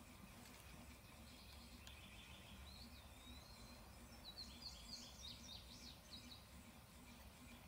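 Near-silent outdoor background with a faint low hum, and a small bird singing faintly: a few chirps, then a long gliding whistle and a quick run of notes that end about two-thirds of the way through.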